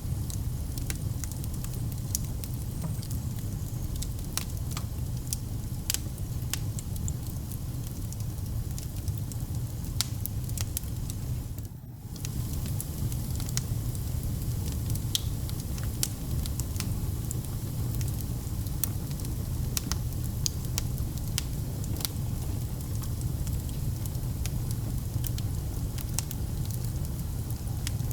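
Wood fire burning in a fireplace: a steady low rumble with frequent sharp crackles and pops scattered throughout. The sound dips out briefly about twelve seconds in.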